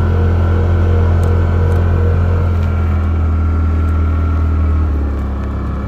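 Engine of a four-wheel-drive vehicle running steadily under way through snow, a loud low drone; the engine note drops about five seconds in as it eases off.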